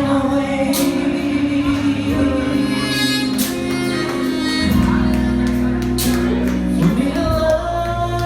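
A live R&B band playing with a singer's voice over it, steady bass notes under the melody.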